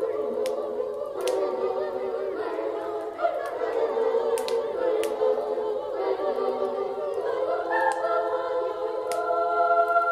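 Choir singing a Christmas song in long held chords, with a wood fire crackling in sharp clicks now and then.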